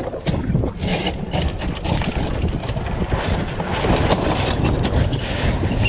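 Wind buffeting the microphone aboard a small sailboat under way as it tacks, with a few scattered clicks and knocks from the boat's gear.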